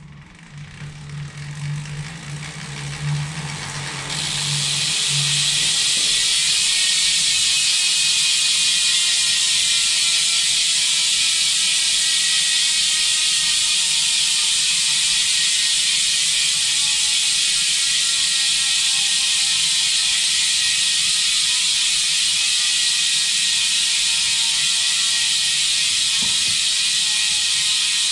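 Retrospec bicycle wheel's freehub ratchet clicking as the wheel is spun, then from about four seconds in a loud, shrill, steady buzz as it freewheels, slowly dropping in pitch as the wheel slows.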